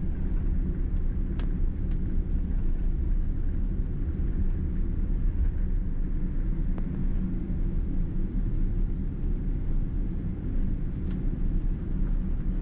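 Steady low rumble in the cabin of a Boeing 777-200ER taxiing on the ground, with a few faint clicks about a second in and again near the end.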